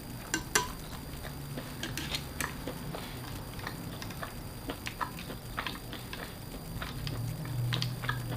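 Eating sounds at a meal table: scattered light clicks and taps of dishes and utensils, over a low hum that grows louder near the end.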